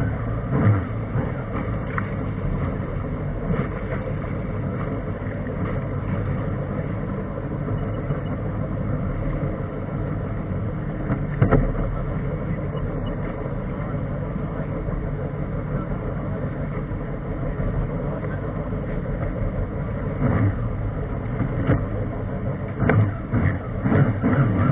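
Jet ski engine running steadily under way, with a few sharp knocks, most of them near the end.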